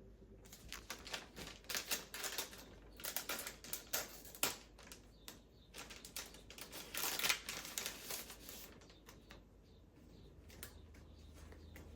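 A quick, irregular run of light clicks and taps lasting about eight seconds, thinning out to occasional single taps near the end.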